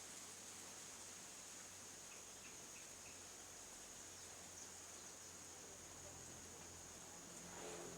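Near silence: faint outdoor ambience with a steady high-pitched hiss and a low hum, and four faint short chirps about two to three seconds in.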